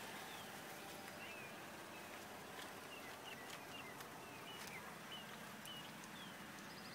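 A small bird chirping repeatedly: short, high chirps that slide up or down, several a second at times, faint over a steady outdoor hiss.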